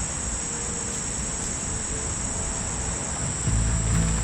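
Steady, high-pitched insect chorus, an even unbroken trill. A low rumble joins in about three and a half seconds in.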